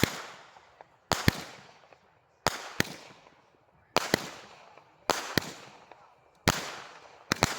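Consumer firework cake firing shot after shot: a sharp bang about every second and a half, most of them doubled cracks, each trailed by a fading crackle.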